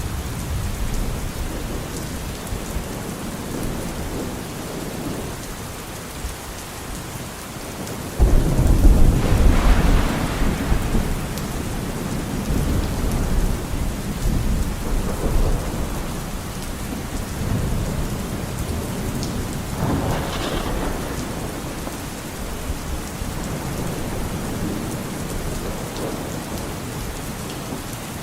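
Steady rain falling with thunder. A loud low thunder rumble breaks in suddenly about eight seconds in and rolls on for a few seconds, and a softer rumble comes around twenty seconds in.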